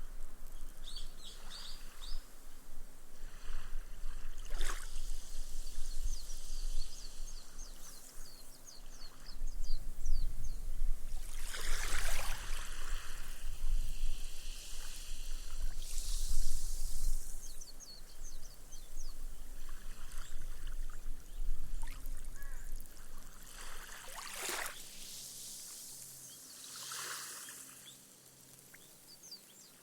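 Small, gentle waves washing up a sandy beach and fizzing away as the water soaks into the sand. Each wash swells and fades every few seconds over a low steady surf rumble, and the sound grows quieter toward the end.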